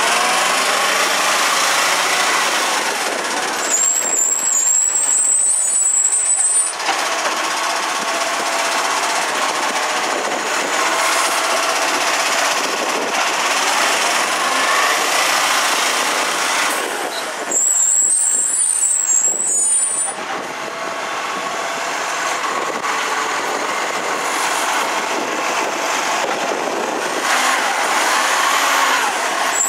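MacDonald Johnston side-loader garbage truck running, its engine and hydraulics giving a steady whine. A thin high whistle comes in twice, about 14 seconds apart, each lasting a few seconds.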